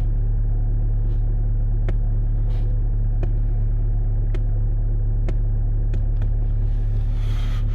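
2010 Skoda Octavia 1.6 TDI four-cylinder diesel engine idling steadily shortly after a cold start at about −20 °C, with its revs settling as it warms. A few faint clicks are heard through the steady hum.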